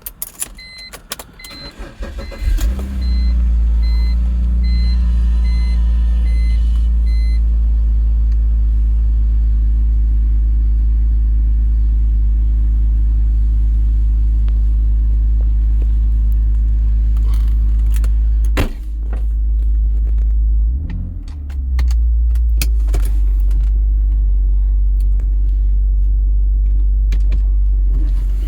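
Keys rattle and a car's warning chime beeps in even pulses. Then the BMW E46 330i ZHP's 3.0-litre inline-six cranks and catches about two seconds in, on a cold start. It settles into a steady idle, which wavers briefly about two-thirds of the way through.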